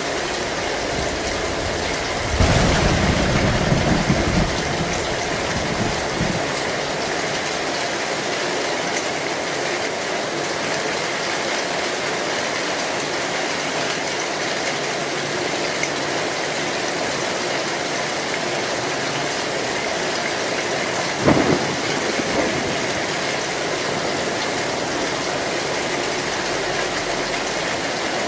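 Heavy rain drumming steadily on an old zinc sheet roof. Thunder breaks in a few seconds in with a rumble lasting about two seconds, and a shorter crack comes about three-quarters of the way through.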